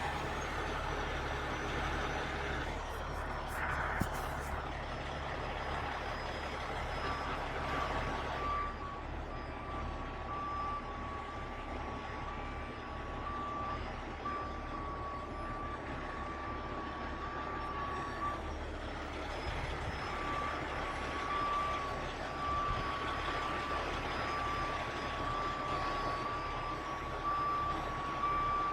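Heavy diesel truck engine running steadily under a vehicle's reversing alarm, which starts beeping about seven seconds in, pauses briefly around eighteen seconds, then resumes. A single sharp clank about four seconds in.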